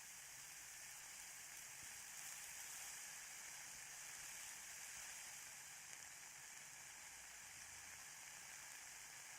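Ear candles burning in both ears at once: a faint, steady, high sizzling hiss with an occasional soft crackle.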